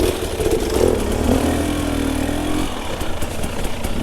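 Enduro dirt bike engine running under throttle on a muddy trail, its note dipping in pitch and easing off about two and a half seconds in.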